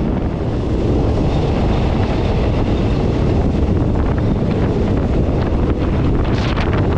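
Steady rumble of a moving passenger train, with heavy wind buffeting the microphone at an open carriage door.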